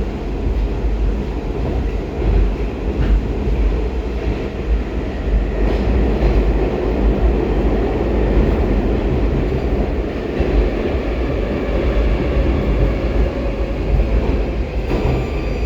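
Metro train of the 'Baltiets' type running at speed between stations, heard from inside the car: a steady rumble of wheels on rail and running gear, with faint high tones above it.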